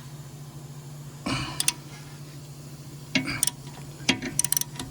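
Short metallic clinks and rattles of a wrench and steel bolt as the wheel bearing's mounting bolt is worked loose, in three or four brief groups over a steady low hum.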